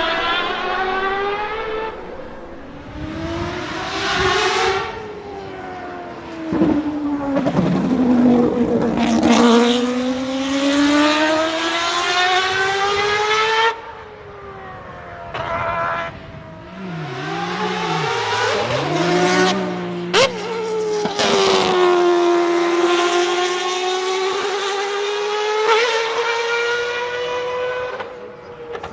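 Mazda 767B's four-rotor rotary engine at full throttle, its high-pitched note climbing again and again and dropping back at each gear change, with a couple of lifts off the throttle where the pitch falls away. A single sharp crack about two-thirds of the way through.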